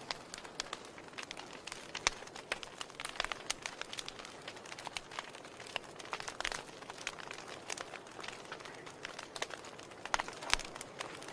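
Wood fire in a fireplace crackling: irregular snaps and pops over a soft steady hiss. Somewhat louder pops come about two seconds in, around six and a half seconds, and near the end.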